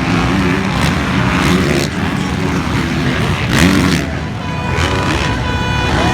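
Motocross dirt bike engines revving hard, the pitch rising and falling as the throttle opens and closes.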